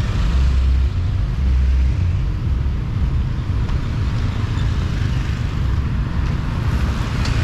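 Steady traffic noise from a very busy road, with vehicles passing close by.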